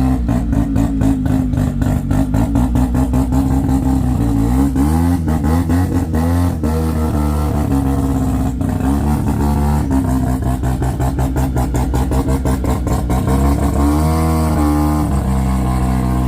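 Car engine with an aggressive cam idling with a choppy, lumpy lope. It is revved up and back down about four seconds in and again near the end.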